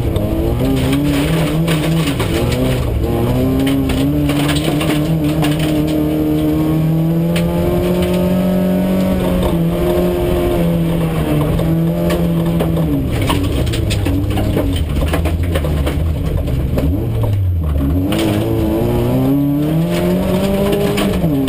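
Autocross race car's engine heard from inside the cabin, driven hard on a gravel track. The revs climb and hold high through the middle, drop sharply with a lift or downshift about three-quarters of the way in, then climb again. Scattered knocks and rattles come from the loose, bumpy surface.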